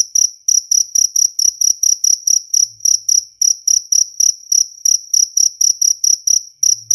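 Jaliteng cricket chirping in a steady, even rhythm of short high-pitched chirps, about four to five a second.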